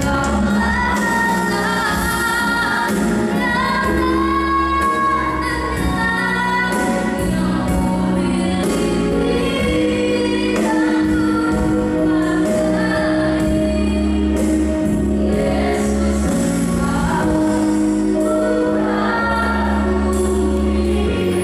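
A woman's solo voice singing a song over an instrumental backing with a sustained bass and regular percussion.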